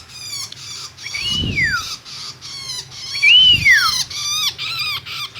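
Long-tailed shrike (cendet) giving rapid runs of harsh, raspy chattering calls. Two louder drawn-out notes rise and then fall in pitch, about one and a half and three and a half seconds in; the second is the loudest sound.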